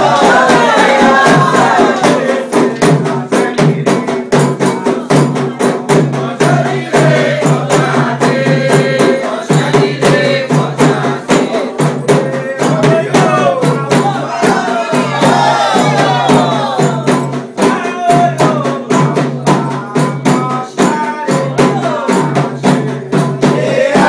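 Candomblé ritual music: voices singing a chant over fast, dense percussion that runs without a break.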